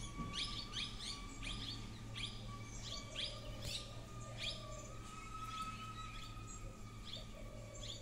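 Small birds chirping: repeated short, falling chirps, a couple a second, thinning out in the second half, over a thin steady tone.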